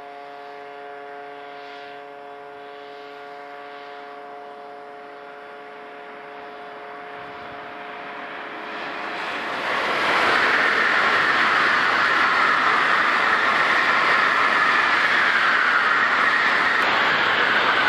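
300 series Shinkansen bullet train approaching and passing at speed. It starts as a moderate hum with steady tones in it, swells from about seven seconds in, and becomes a loud, steady rush of air and wheel noise as the train goes by.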